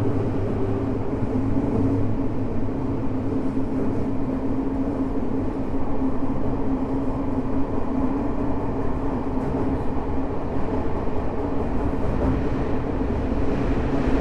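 Tokyo Metro 05 series subway train heard from inside the car while running steadily: a continuous rumble of wheels on rail with a steady hum.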